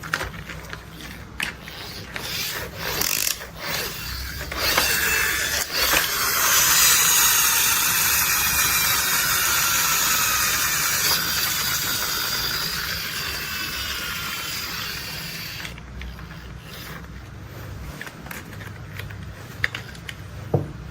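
Plastic toy construction vehicles being worked by hand, their joints clicking and ratcheting. A louder rasping, whirring rush with faint falling whines runs for about ten seconds in the middle, and scattered clicks come before and after it.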